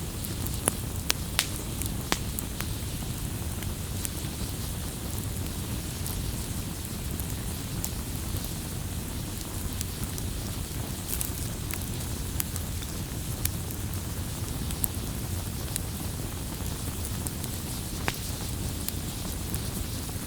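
Wood campfire burning: a steady low rush of flame with sharp crackles and pops scattered through it, thickest in the first few seconds.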